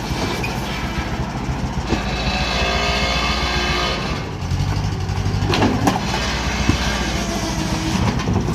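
A vehicle engine running steadily. A higher whine rises over it about two seconds in and lasts a couple of seconds, and a few sharp knocks come near the six-second mark.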